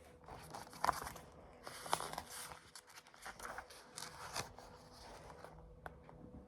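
Paper pages of a picture book rustling and scraping as they are handled and turned: a run of short swishes and scrapes over about five seconds, dying down near the end.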